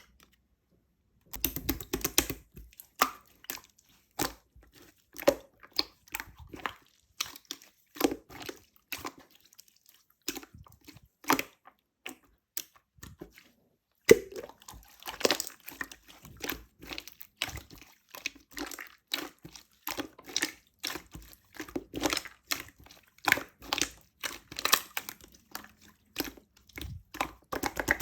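Opaque slime being squished and stretched, giving a run of irregular sticky pops and crackles with a short lull near the middle.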